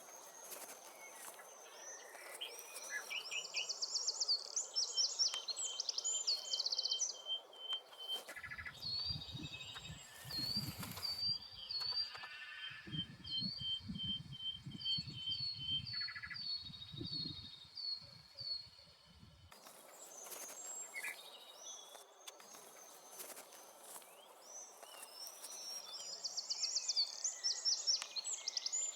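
Small woodland songbirds singing and calling: series of high, thin notes and quick trills. A low rumbling noise runs underneath for about ten seconds in the middle.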